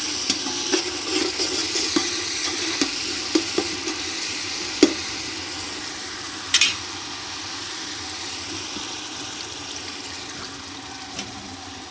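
Ginger-garlic paste and fried onions sizzling in ghee in a large aluminium pot, a metal spatula clicking and scraping against the pot as it is stirred during the first five seconds. A short burst of louder hiss comes about six and a half seconds in, and the sizzle eases off slowly.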